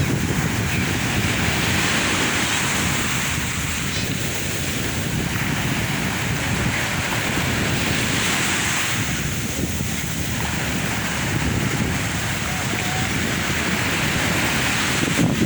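Sea waves breaking and washing on the shore, the hiss of the surf swelling and easing every few seconds, over a steady low rumble of wind on the microphone.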